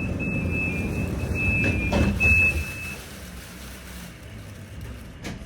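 Tram interior: a repeated electronic beep, each about half a second long, sounds for the first three seconds or so over the low rumble of the tram. The rumble then quietens, and there is one sharp click near the end.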